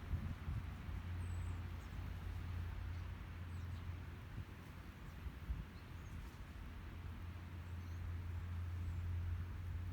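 Outdoor nature ambience: a steady low rumble under a soft even hiss, with a few faint, short, high bird chirps scattered through.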